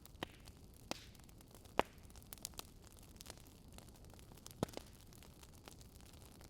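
Campfire crackling: scattered sharp pops over a faint, steady hiss. The loudest pop comes about two seconds in, and a pair follows a little after four and a half seconds.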